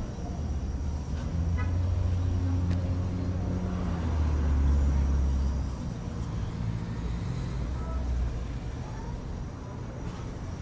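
A motor vehicle's engine running close by: a low hum that swells over the first half and then eases off.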